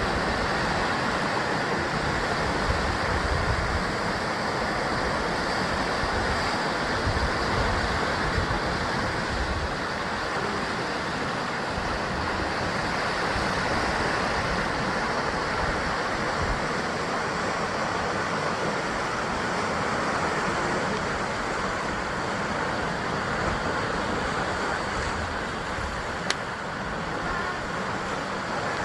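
Sea waves surging and breaking against a rocky shore in a steady wash, with wind buffeting the microphone. A brief click about 26 seconds in.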